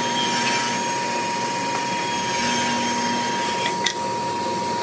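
Woodworking shop machine running steadily: a constant noise with a steady high tone through it and a couple of faint clicks near the end.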